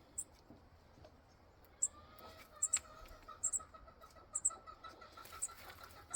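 Birds calling: short, high double chirps repeat about once a second, and from about two seconds in a steady, even pulsing trill joins them.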